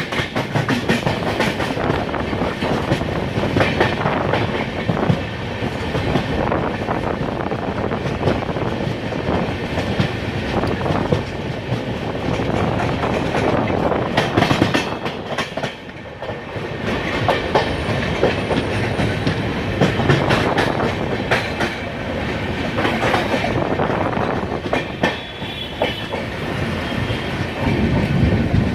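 Superfast express passenger train running through a station at speed without stopping: its coach wheels clatter over the rail joints in a continuous fast clickety-clack, with a brief lull about sixteen seconds in.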